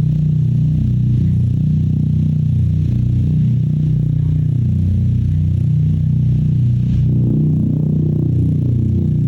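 Steady low droning tone with several overtones, driving a speaker or plate that vibrates pieces of charcoal, with a faint clattering, scraping rattle of the charcoal on top.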